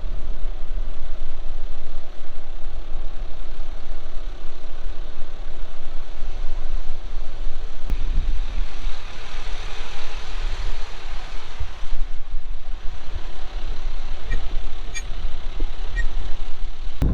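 A vehicle driving along the road, with a steady engine and road rumble throughout. A few faint ticks sound between about 14 and 16 seconds in.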